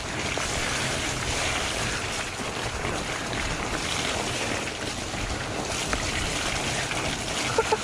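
Steady rushing noise of a fat bike being ridden along a muddy trail: wind buffeting the camera's microphone over the sound of the wide tyres rolling through the mud.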